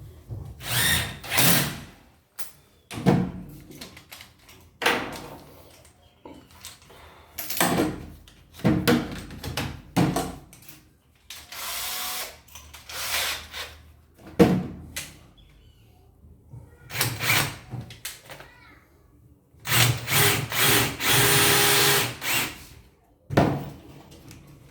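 Power drill running in short bursts of one to two seconds, as when driving screws, with sharp knocks in between. The longest run, about twenty seconds in, has a steady motor whine.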